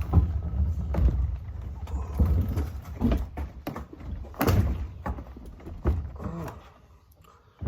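Knocks and thumps of a dirt bike being pushed and wrestled into a tight space in a vehicle for transport, over a heavy rubbing rumble on the microphone for the first few seconds.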